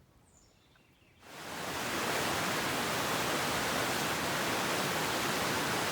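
Steady rush of flowing water from a fast mountain creek, fading in about a second in after a near-quiet moment that holds a faint high chirp.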